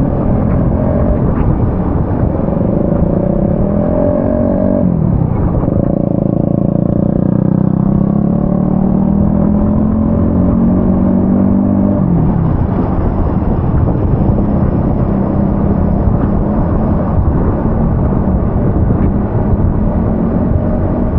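A road vehicle's engine pulling through its gears: its pitch climbs, drops sharply about five seconds in and again about twelve seconds in, then climbs again. Under it runs a steady rush of tyre and rain noise on a wet road.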